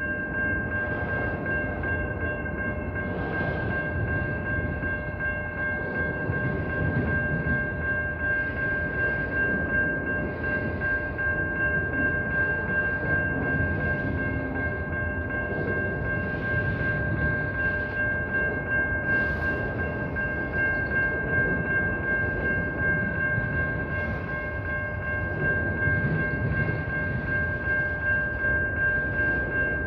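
Freight train of autorack cars rolling past with a steady rumble, while the grade crossing's warning bell rings continuously over it as a steady high ringing.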